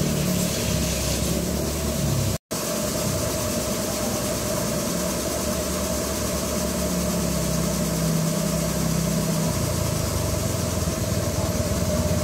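A small motorcycle engine running steadily, with a brief dropout in the sound about two and a half seconds in.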